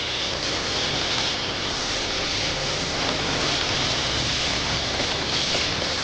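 Pressure washer spraying water onto a vehicle: a steady hiss of spray.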